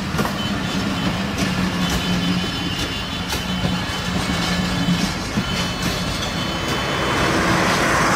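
Broad-gauge passenger coaches of an intercity express rolling past close by: wheels knock over rail joints above a steady low hum, with a thin high squeal in the middle. Near the end a louder rushing noise builds as a louvred power car goes by.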